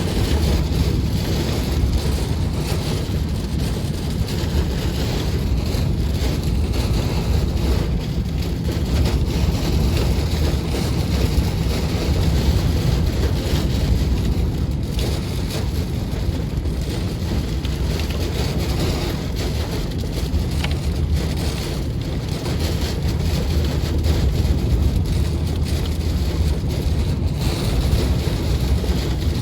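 Heavy rain and strong wind of a severe thunderstorm, heard from inside a moving car: a steady wash of rain over a deep, constant rumble of wind and road noise.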